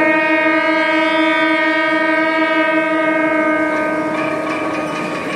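One long, steady horn blast held on a single note, which stops shortly before the end.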